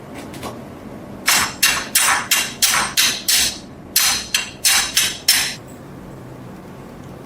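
Hammer blows on metal, about a dozen quick strikes in two runs at roughly three a second, each with a short ring.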